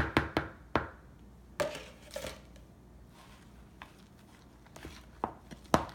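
A utensil working a whipped dessert mixture in a bowl: a few sharp knocks against the bowl, the loudest near the end, and two short scrapes about a second and a half in.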